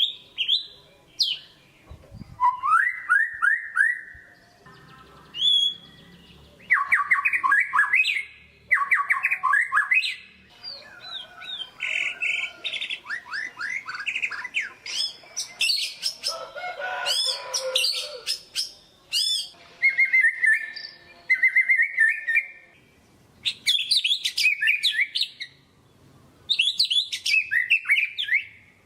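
White-rumped shama (murai batu) singing in full voice: a run of varied phrases of rapidly repeated whistled and chattering notes, separated by short pauses.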